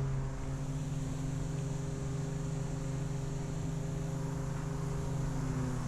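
Outboard jet motor of an inflatable river jet boat running at a steady speed, with an even, unchanging engine note.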